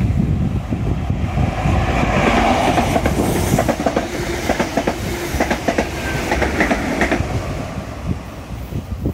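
A train passing close by, its wheels clicking over the rail joints. The sound builds over the first few seconds, then fades toward the end.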